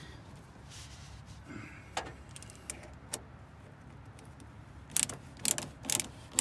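Ratchet wrench worked in short strokes, about two a second near the end, with a few single metal clicks before; it is tightening the truck's battery cable terminal.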